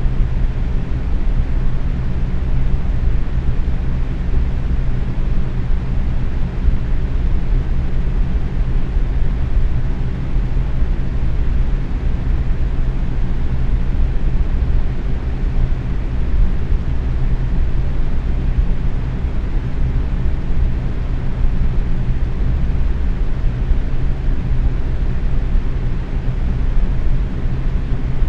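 Box fan running steadily at medium speed: an even whoosh of moving air with a low hum underneath.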